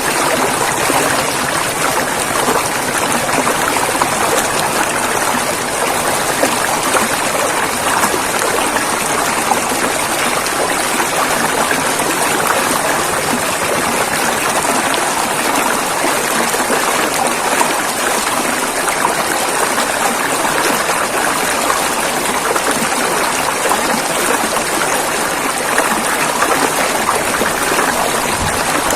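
River water rushing and splashing over rocks in a steady, even rush.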